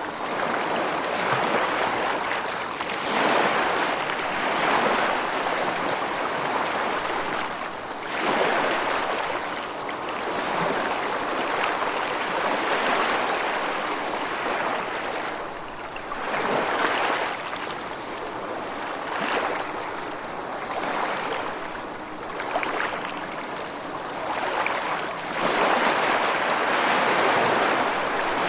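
Rushing water in a steady wash that swells and eases every few seconds.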